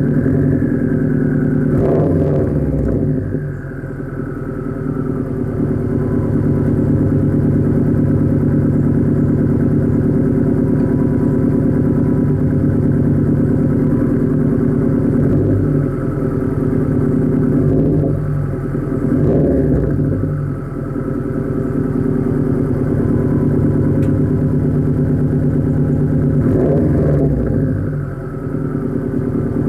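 2009 Subaru WRX's turbocharged flat-four engine idling after a cold start through a 3-inch catted downpipe and Nameless Performance quad-tip cat-back exhaust with the muffler deleted, a steady exhaust burble. The idle eases slightly lower in the first few seconds, and the sound dips briefly three times.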